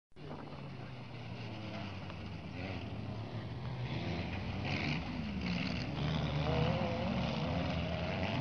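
Car engine running, growing steadily louder as the car approaches.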